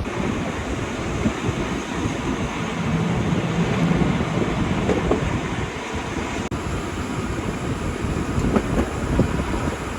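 Rhaetian Railway regional train running along the track, heard from aboard: a steady rolling rumble and rush of noise, with a brief low hum a few seconds in.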